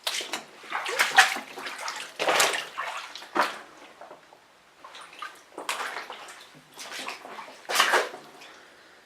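Footsteps wading through standing water and mud, a string of irregular splashes and sloshes about one per step, the loudest around a second in, two and a half seconds in and near the end.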